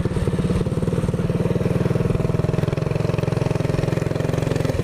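Single-cylinder Predator 212cc mini bike engine running at a steady, low speed with an even putter and no revving.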